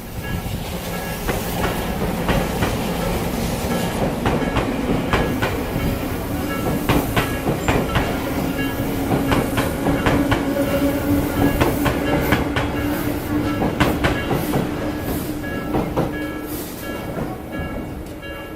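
A train passing over a level crossing, its wheels clacking over the rail joints in many quick strokes under a steady hum that rises slightly in pitch. The crossing's warning bell rings over it in a fast, even repeating pattern.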